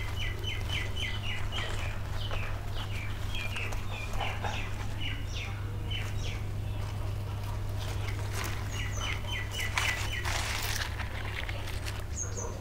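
Small bird chirping in quick runs of short repeated notes, several bouts of them, with a few higher single chirps. A steady low hum lies underneath, and a brief rustle comes about ten seconds in.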